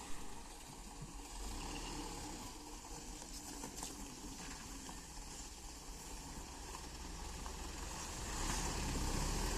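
A vehicle engine running steadily under an even hiss, getting louder about eight and a half seconds in.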